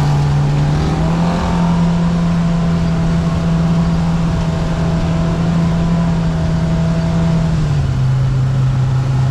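Side-by-side UTV engine running under steady throttle on a trail. Its pitch steps up about a second in, holds, and drops back near the end.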